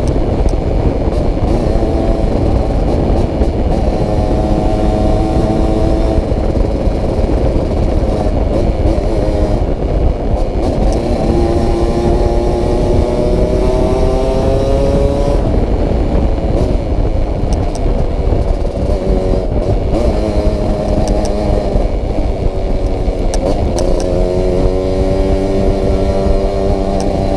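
Yamaha RX-King 135 cc two-stroke single-cylinder motorcycle engine riding under load, its pitch climbing steadily through each gear and dropping at each shift, about three times, over wind rumble. The exhaust is said to rattle badly.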